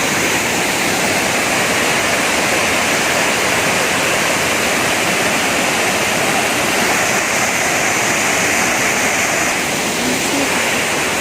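Waterfall on the Karura River: a loud, steady rush of falling water.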